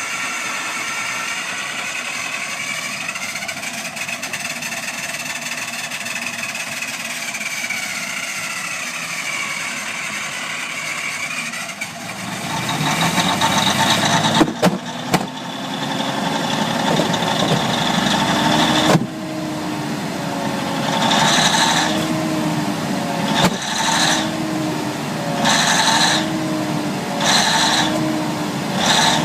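Large diesel engine running after a cold start, with a steady whine that wavers slowly in pitch. About twelve seconds in it gets louder and rises. In the last third it is revved in short pulses about every second and a half.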